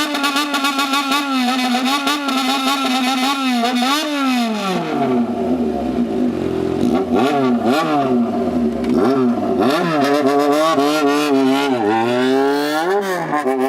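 Motorcycle engine revved in a bosozoku-style 'call' performance. It is held at a steady high rev for about four seconds, then the throttle is worked in a quick series of rising and falling swoops, a rhythm of revs played like a tune.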